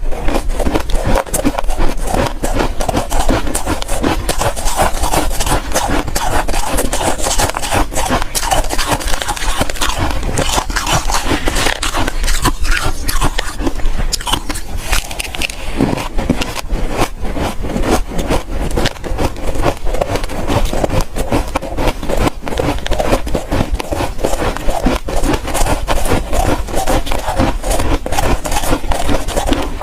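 Close-miked biting and chewing of soft ice: a dense, unbroken run of crisp crunches and crackles.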